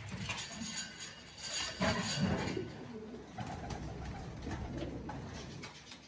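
A bird cooing in low notes, loudest about two seconds in, with scattered light clicks.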